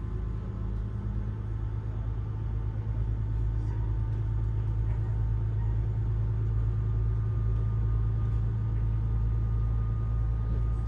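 Diesel railcar heard from inside the cabin, its engine and running gear giving a steady low rumble that builds over the first few seconds as the train pulls away from the station.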